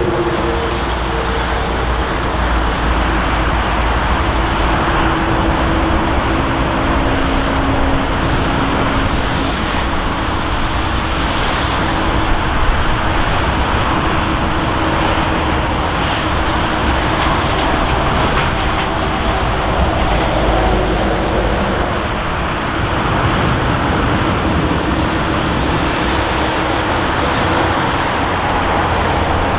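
Jet noise from a four-engined Boeing 747-400F freighter: a loud, steady rush, with a few faint steady tones in the first few seconds.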